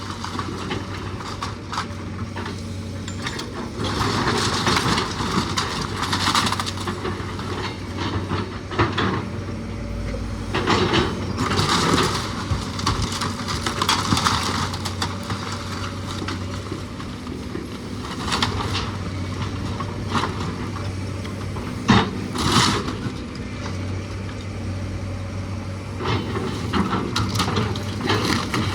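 An engine running steadily under repeated crunching and cracking of wood and debris as the house is torn apart, with one sharp crack about three-quarters of the way through.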